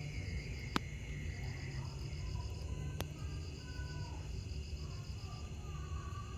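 Night crickets trilling in repeated pulsed phrases over a steady low rumble, with two sharp clicks, one just under a second in and one about three seconds in.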